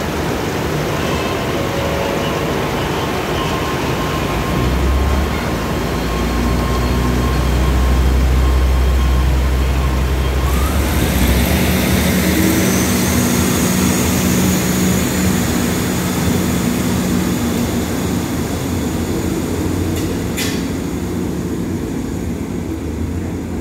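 Diesel passenger train pulling out of the station, its engines running with a deep drone that is strongest about halfway through, as the cars roll past on the rails. A single sharp click comes near the end.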